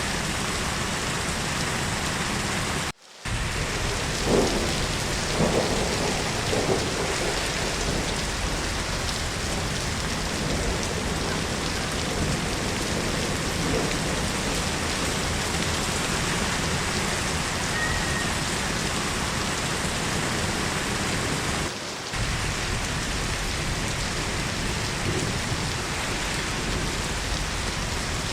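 Steady heavy rainfall on a surface. It cuts out for a moment about three seconds in, then a few louder cracks of thunder come between about four and seven seconds in.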